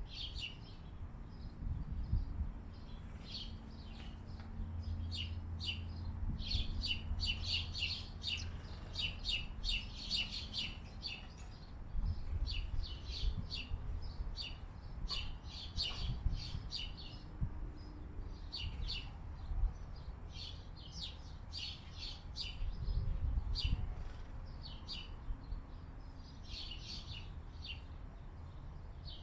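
Small birds chirping in quick runs of short, high notes, with a low rumble underneath that swells and fades.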